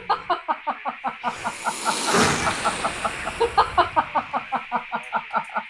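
A rapid chattering, clucking-like sound, about five or six pulses a second, with a hiss swelling up briefly about two seconds in.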